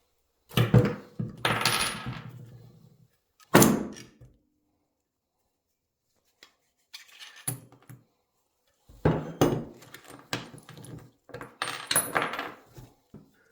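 Metal parts clattering and knocking as they are handled and set down on a hard surface: a run of clatter near the start, one sharp knock about three and a half seconds in, a few faint clicks, then more clatter near the end.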